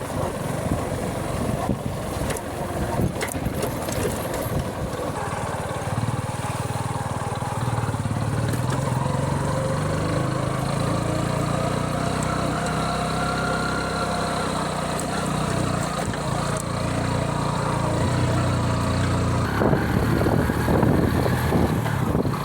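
Motorcycle engine running steadily while riding, its pitch drifting up and down with the throttle, with wind rushing over the microphone. The wind buffeting grows rougher near the end.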